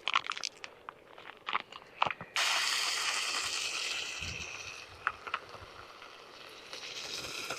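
A ribeye steak laid into a hot non-stick fry pan, sizzling suddenly about two seconds in, the sizzle then slowly dying down. A few light clicks and taps of handling come before it.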